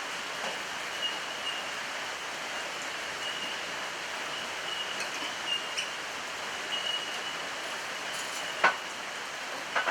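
A steady rushing hiss, with a faint high tone coming and going and one sharp click near the end.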